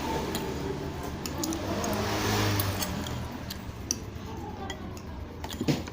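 Eating sounds from a bowl of meatball soup: a spoon clicking and scraping against the bowl, with a longer noisy sound about two seconds in and a couple of louder knocks near the end.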